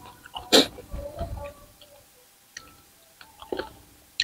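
Close-miked eating sounds: scattered mouth clicks and short crunches of chewing raw vegetables and salad. A sharper crunch comes about half a second in, with a quieter stretch midway.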